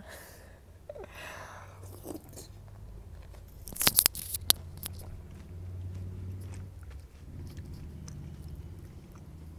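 Eating a crisp pani puri (golgappa) filled with jaljeera: a cluster of sharp crunches about four seconds in, then chewing.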